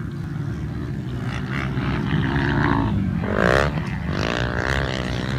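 Motocross motorcycle engines running over a heavy low rumble, with revs gliding up and down about three to five seconds in.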